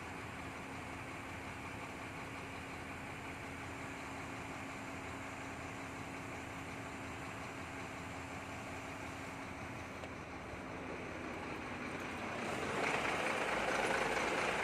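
Steady mechanical hum with a faint constant tone, like an engine or machine running at idle; it grows louder and rougher near the end.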